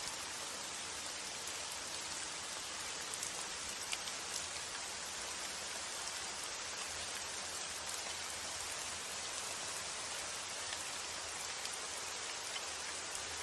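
Steady rain falling: an even hiss with scattered single drop ticks standing out, one slightly louder pair about four seconds in.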